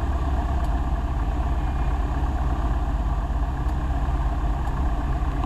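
A light single-engine airplane's piston engine and propeller drone steadily, heard from inside the cabin.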